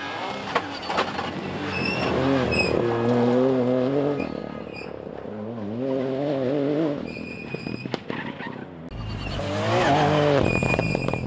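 Rally car engine at full throttle on a special stage, its revs climbing and dropping with each gear change and corner, in three loud spells with quieter gaps between. A few sharp cracks and pops sound along with it.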